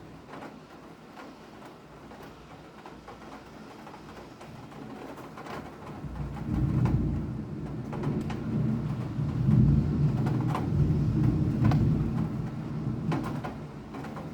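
Rain falling steadily with scattered drips ticking. About six seconds in, a deep rumble swells up, holds for several seconds and fades away near the end.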